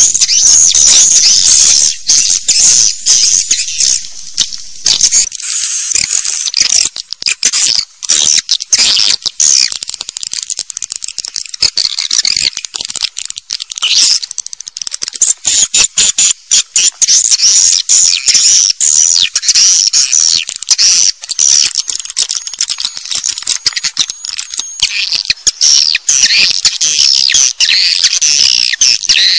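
Swiftlet calls: a loud, continuous chorus of rapid high-pitched twittering chirps and clicks, a swiftlet lure call of the kind played to draw swiftlets into nesting houses.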